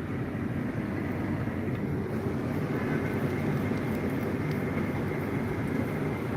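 Steady car road and engine noise heard from inside a moving car, a low, even rumble.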